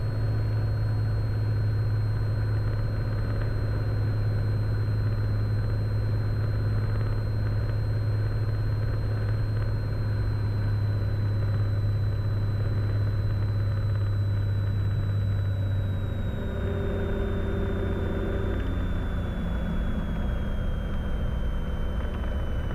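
Cessna Skylane's single piston engine and propeller droning steadily in the cockpit. From about halfway through the pitch slowly eases down, and about two-thirds of the way in the low drone drops and changes as power is reduced.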